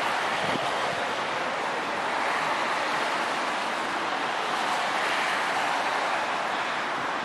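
Steady rushing noise of a train approaching in the distance along the line, with no distinct engine or horn sound.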